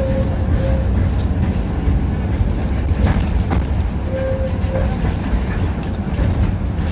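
Tram running along the rails, heard from inside the car: a steady low rumble of wheels and running gear, with two sharp clacks of the wheels over rail joints about three seconds in.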